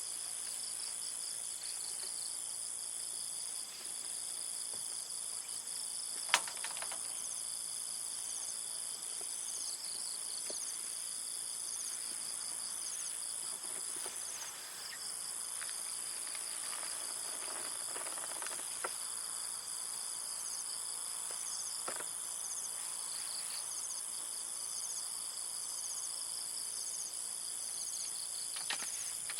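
A steady chorus of insects, crickets among them: a continuous high drone with a pulsing trill beneath it. A few short clicks and knocks sound over it, with one sharp click about six seconds in the loudest.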